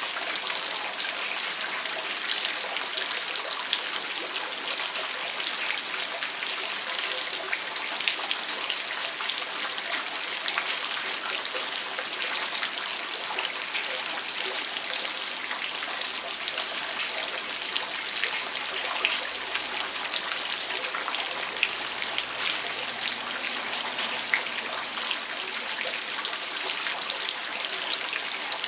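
Steady heavy rain falling at night, a dense hiss of drops with many small individual drop hits.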